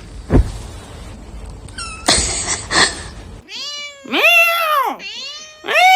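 Domestic cat meowing: a long meow that rises and then falls in pitch begins about three and a half seconds in, and a second one starts near the end. A thump comes about half a second in.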